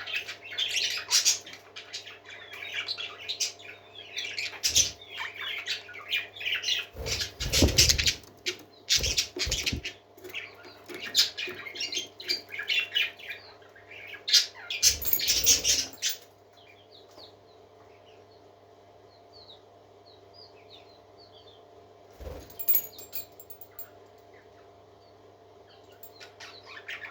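Parakeets chirping and chattering busily, with a few louder flurries around the middle. In the last third the chatter thins to scattered chirps over a faint steady hum.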